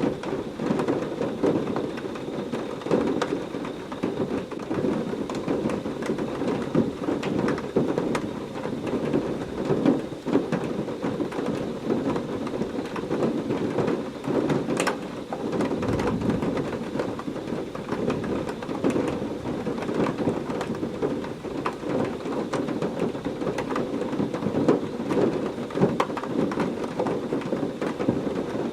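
Heavy rain falling steadily, with a constant patter of drops, and distant thunder rumbling low, swelling briefly about halfway through.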